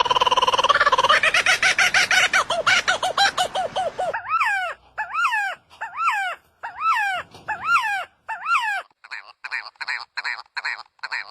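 A sequence of bird calls. First comes a fast rattling call lasting about four seconds. Then a run of separate calls, each rising and falling in pitch, repeats at a bit over one a second. Near the end, shorter and higher-pitched calls follow each other quickly.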